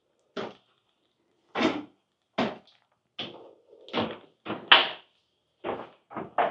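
Footsteps going down a steep staircase: about ten separate thuds at an uneven walking pace.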